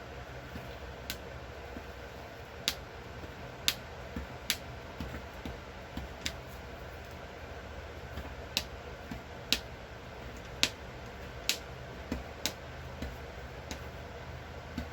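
A pointed piercing tool punching holes one at a time through a magnolia leaf: about a dozen sharp clicks at uneven intervals, over a faint steady hum.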